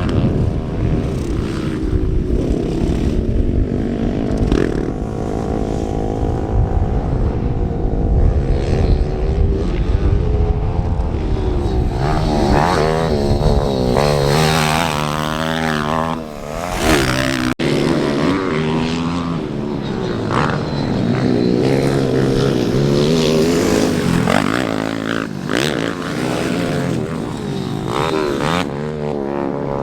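Small single-cylinder four-stroke pit bike engine being ridden, revving up and down again and again with its pitch rising and falling.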